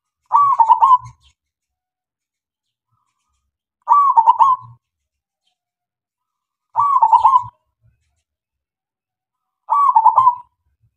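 Zebra dove (perkutut) cooing: four short phrases of quick staccato coos, each under a second long, about three seconds apart.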